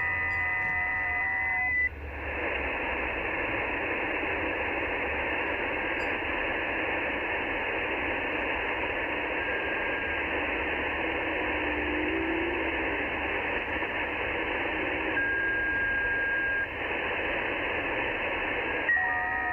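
Shortwave transceiver's receive audio on the 40 m band: a steady hiss of band noise with faint FT8 digital tones in it. Several steady FT8 tones at different pitches sound at the start, cut off about two seconds in, and return near the end.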